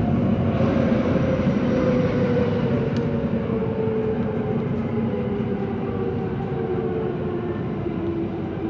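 Electric commuter train heard from inside the carriage, with rumbling wheel-on-rail noise. The traction motors' whine falls steadily in pitch as the train slows into a station.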